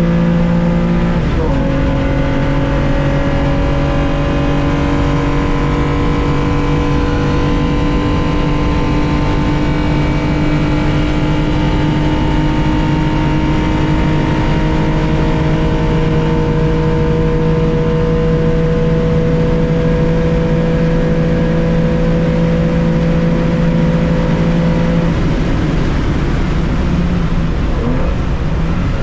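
The air-cooled flat-six of a 1965 Porsche 911 2.0 under racing load, heard onboard. The note drops with an upshift about a second in, then climbs slowly for over twenty seconds in one gear at full throttle. It breaks off and wavers near the end as the driver comes off the throttle.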